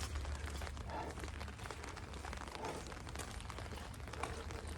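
Faint, irregular patter of rain on an umbrella overhead, over a low steady rumble.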